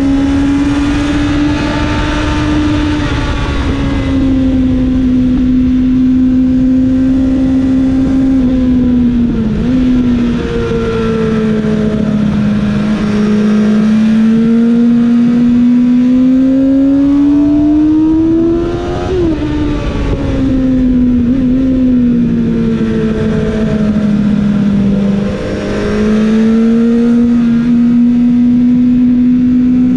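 Kawasaki ZX-7R's 750cc inline-four engine at high revs on track, its pitch climbing and falling as the rider accelerates and backs off, with sharp breaks in the revs about 9, 19 and 25 seconds in.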